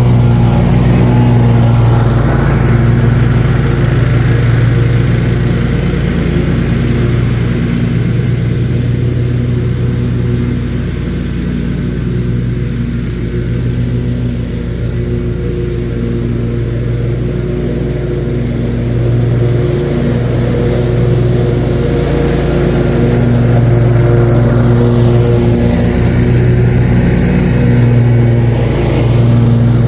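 Lawn mower engine running steadily under load while cutting grass, a little quieter for a stretch in the middle.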